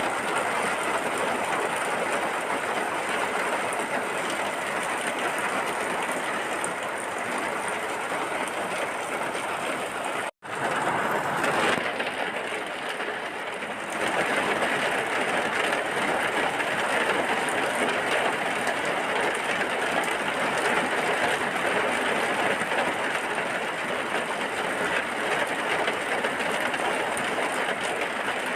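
Steady heavy rain, an even hiss with no break except one sudden split-second cut-out about a third of the way through, after which it comes back a little duller for a few seconds.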